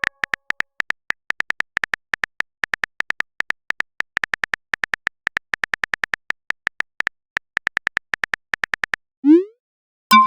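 Phone-keyboard typing sound effect: rapid short clicks, about six a second, that stop about nine seconds in. A short rising swoop follows, like a message-sent sound, and a chime begins right at the end.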